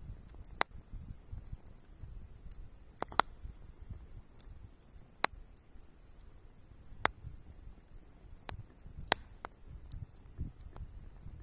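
Wood campfire crackling, with sharp pops every second or two over a low, uneven rumble.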